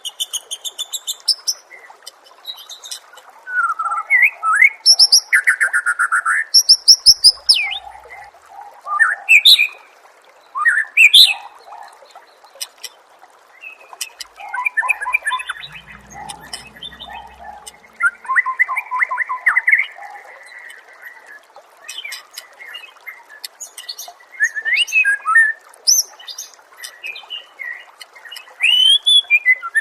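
Songbird song recording used as a masteran training track: loud, varied phrases of clear whistles, quick rising and falling notes and fast rattling trills, broken by short pauses, over a steady background hiss.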